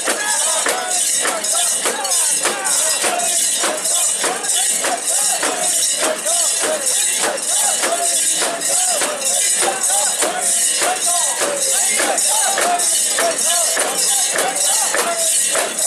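Mikoshi (portable shrine) being carried and shaken, its metal rings jingling in a steady rhythm about twice a second, with many voices calling over it.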